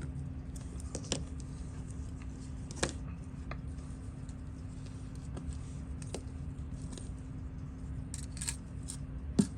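Small, sharp clicks and taps of watchmaker's tools handling a watch at the bench, scattered irregularly with the loudest click near the end, over a steady low hum.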